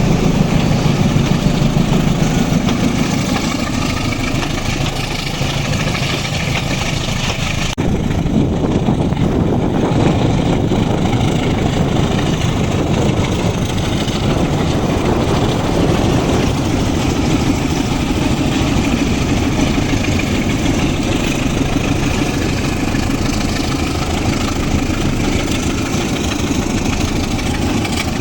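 Diesel locomotives of a loaded ore freight train running with a steady low engine rumble. The sound changes abruptly about eight seconds in.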